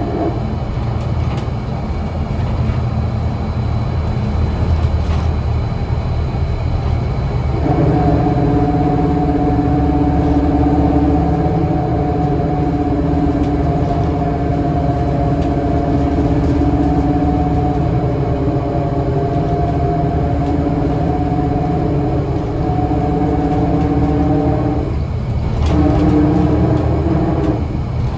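Scania L94UA bus running, a constant low engine rumble. About eight seconds in, a steady pitched drone of several tones comes in over it, breaks off briefly near the end, then returns.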